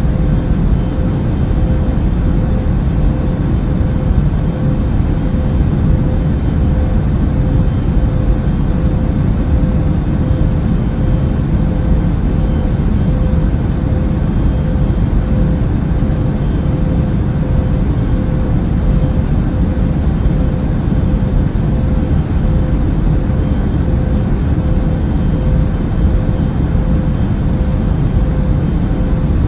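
Steady in-flight noise of an Airbus A380 airliner in cruise: an unbroken low rumble and rush of air with a thin steady hum over it.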